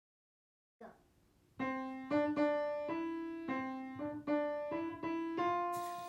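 Piano music: a slow phrase of single struck notes, each ringing and fading, about two a second, starting after a second and a half of silence. A soft hiss comes in near the end.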